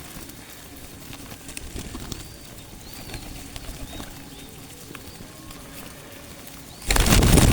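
Small birds chirping with short arching calls while pigeons feed close by. Near the end a loud rush of noise drowns them out.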